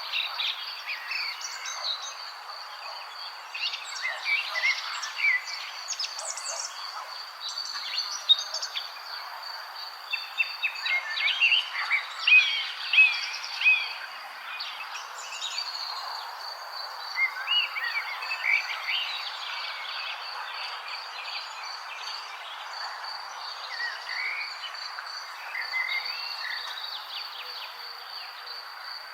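Wild birds chirping and singing in short, overlapping phrases, busiest toward the middle, over a steady high-pitched trill and a soft background hiss.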